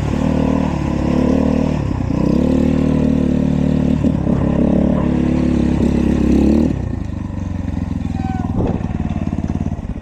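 Dirt bike engine running hard under throttle, its pitch dipping and climbing again a few times as the rider shifts or blips. About two-thirds of the way through it backs off to a lower, quieter steady running.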